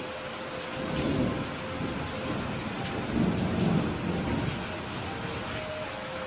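Steady rain falling, with thunder rumbling low twice: briefly about a second in, then a longer, louder roll from about three seconds in.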